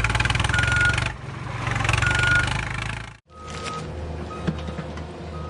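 Heavy vehicle diesel engine sound, a fast even chugging with a few short high beeps. About three seconds in it cuts off abruptly and a quieter, steadier engine idle takes over, with more short beeps.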